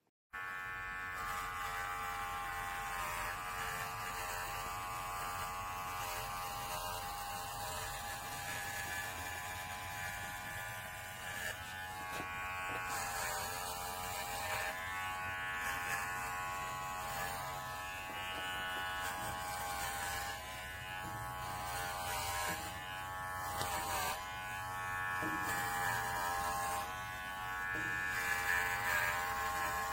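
Cordless electric horse clippers running with a steady buzz that starts abruptly just after the opening. The pitch wavers briefly now and then.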